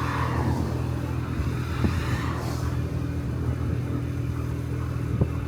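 A Honda Dio Cesta AF68 50cc scooter's small four-stroke single-cylinder engine running steadily on the road, with a steady hum and road noise. There are brief whooshes near the start and about two seconds in.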